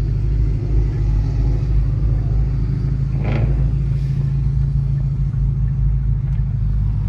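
Car engine and road noise, a steady low drone heard inside a moving car, with one brief higher sound about three seconds in.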